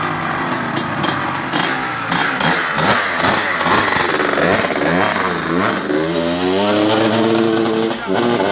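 Motocross motorcycle engine revving, its pitch swinging up and down, then climbing steadily for the last couple of seconds with a brief drop near the end.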